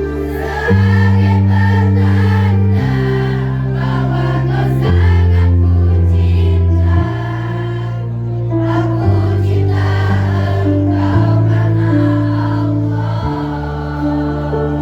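Choir singing over sustained low accompaniment chords that change about every two seconds.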